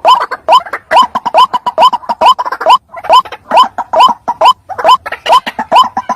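White-breasted waterhen calling: a steady series of short, loud, rising notes, about two a second, a recorded call used as a lure for trapping the birds.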